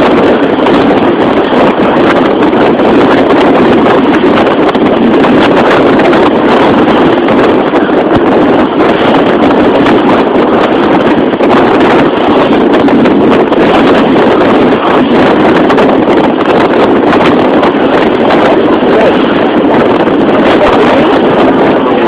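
Loud, steady rush of wind blowing on the microphone aboard a moving motorboat, covering the boat's own running noise.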